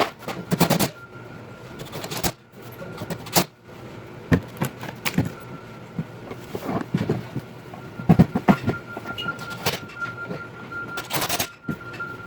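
Clatter of grill assembly played four times fast: rapid clusters of knocks and clicks from metal parts and tools, over a faint steady high tone.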